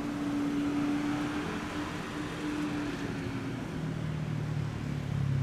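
A car engine running: a steady hum, then a deeper, louder note from about four seconds in.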